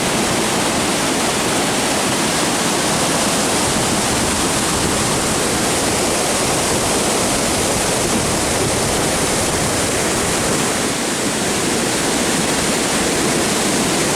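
Waterfall: falling water crashing into a pool, a loud, steady rushing.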